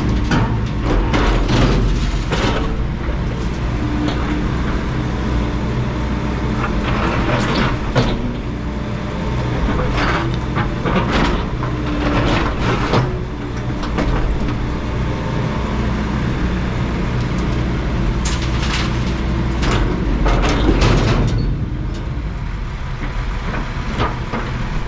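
Excavator diesel engine running steadily under load while concrete slabs are torn out, with repeated clanks, knocks and scraping of the bucket against broken concrete.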